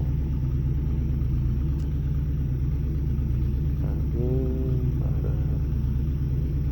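Motorcycle engine idling steadily with a low, even rumble. About four seconds in, a short pitched sound, like a brief hum, rises over it.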